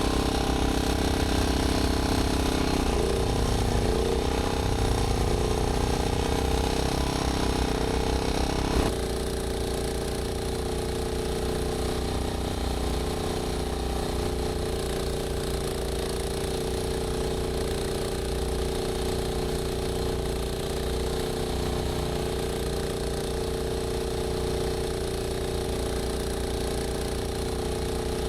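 UTV engine running a front-mounted Rammy single-stage snowblower. Its note wavers under load for several seconds, then changes abruptly to a slightly quieter, steady run about nine seconds in.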